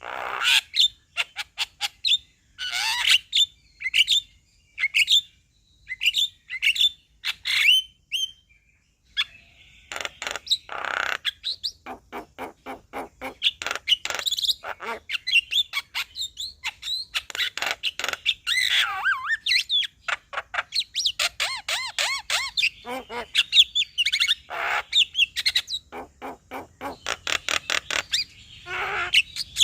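Male Javan myna singing: rapid runs of clicks and chatter mixed with harsh squawks and short whistled notes. Short call phrases with gaps at first, turning into almost unbroken chattering from about ten seconds in.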